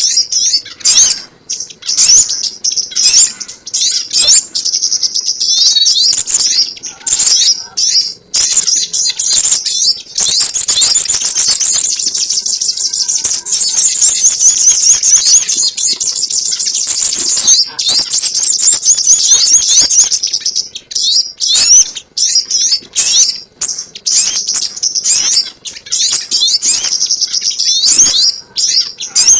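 Sogon ontong birdsong played as a bird-lure recording: rapid, high-pitched chirps and trills repeated over and over, running together into a dense, continuous trill from about a third of the way in to about two thirds of the way in.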